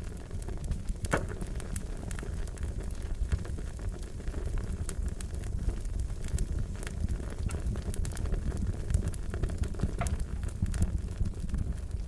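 Fire crackling: a steady low rumble of flames with many small sharp pops, and a couple of louder snaps about a second in and near the end.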